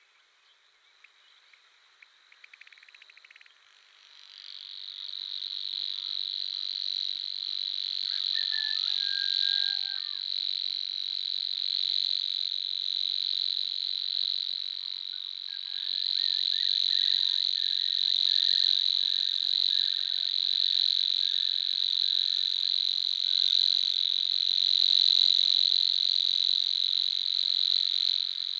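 Savi's warbler singing its long, steady reeling trill, which starts about four seconds in and keeps going without a break. A few short, lower bird notes sound beneath it now and then.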